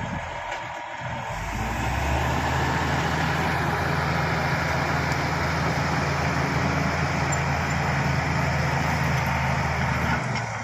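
Shantui SD16 bulldozer's diesel engine working under load while pushing fill. It swells up a second or two in, runs steady and loud, then drops off just before the end.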